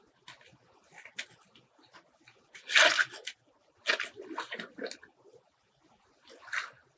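Water splashing and sloshing in a few irregular bursts, the loudest about three seconds in.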